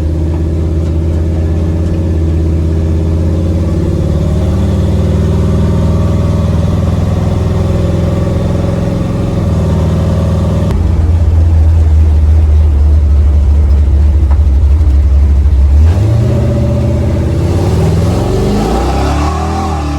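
Camaro's engine running under way as the car is driven, holding a steady note, changing about eleven seconds in, then climbing in pitch as it accelerates near the end.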